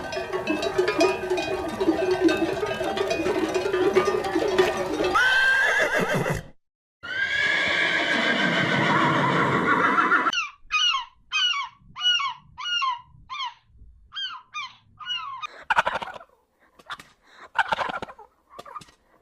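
Farm animal calls of several kinds, one after another. First comes a dense, steady clamour, then one long call whose pitch arches, then a quick run of short, repeated calls, and near the end a few short noisy bursts.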